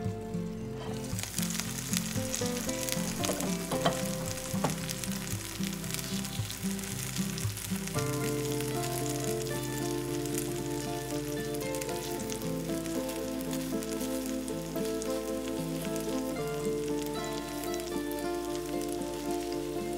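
Eggs and tomato slices sizzling steadily in vegetable oil in a frying pan, the hiss setting in about a second in, with background music playing.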